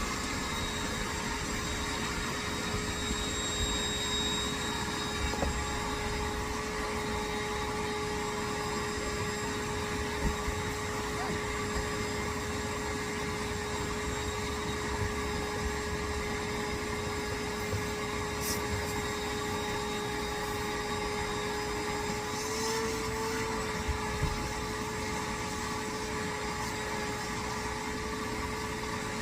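Vacuum cleaner running steadily, with a constant motor hum that wavers slightly in pitch about three quarters of the way through, used to clean a car's floor mats and vents.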